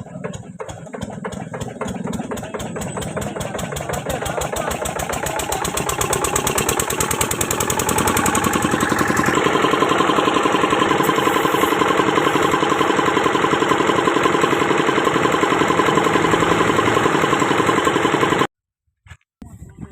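An engine running, its beat quickening and growing louder over the first nine seconds or so, then holding a steady fast beat until it cuts off sharply near the end.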